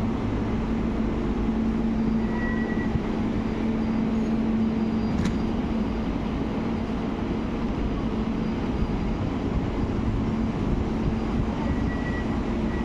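Steady hum and hiss of an electric passenger train standing at the platform, with a constant low tone. A single short click comes about five seconds in.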